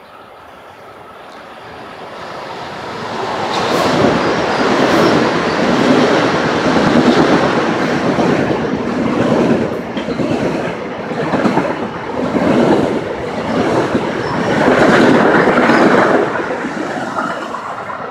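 Passenger train passing through the station, wheels clacking over the rail joints in regular swells. It builds up over the first few seconds, runs loud for about twelve seconds and fades near the end.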